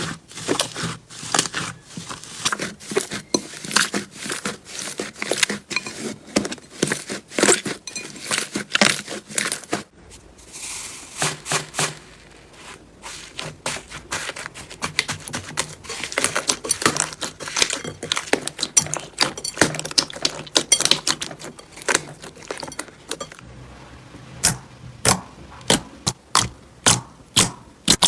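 Slime being squeezed, stretched and poked by hands, giving a rapid, uneven run of crackles and pops. Near the end the pops become sharp and regular, about two a second.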